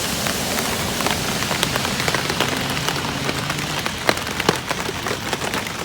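Hard rain falling on a tarpaulin overhead: a steady hiss with many scattered sharp drop hits.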